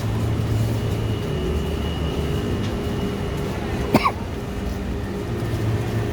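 Street traffic: a steady low hum of vehicle engines running, with one brief, sharp, rising chirp about four seconds in.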